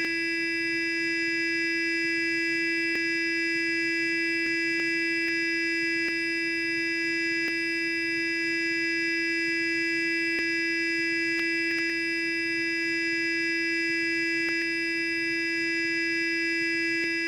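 Sonic electric toothbrush running continuously: an even, unbroken buzz with many overtones, with a faint click now and then.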